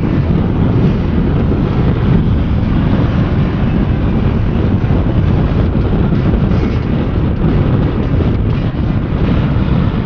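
Motorcycle under way, its engine noise mixed with steady wind buffeting on the microphone.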